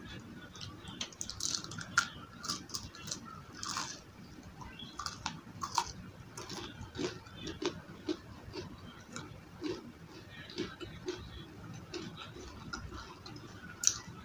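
Close-miked crunching of crispy battered fried onion rings being bitten and chewed, a string of irregular short crisp crunches with steadier chewing clicks through the middle.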